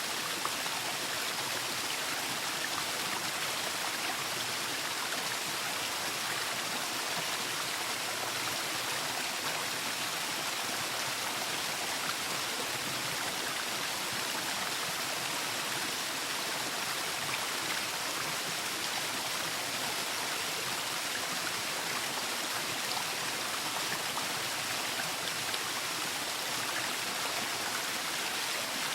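Waterfall: water falling and rushing in a steady, unbroken hiss, even in level throughout.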